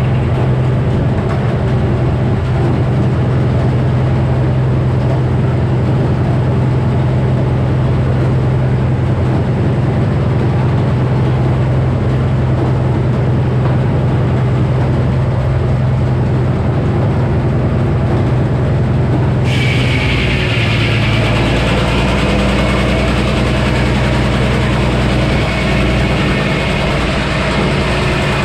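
Engine-driven Frick sawmill with a 48-inch circular blade running, a steady loud engine drone. About twenty seconds in the sound changes suddenly: more hiss comes in and the engine note drops lower.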